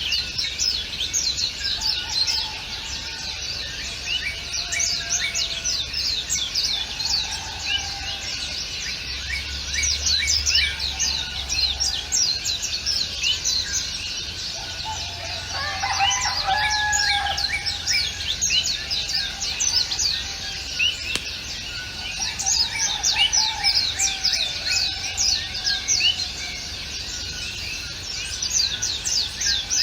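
Dense chorus of small songbirds chirping rapidly, with lower drawn-out calls now and then and a louder call about sixteen seconds in.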